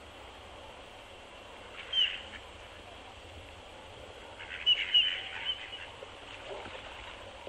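Birds calling over a steady outdoor background hiss: one short high call about two seconds in, then a quick run of several short calls a few seconds later.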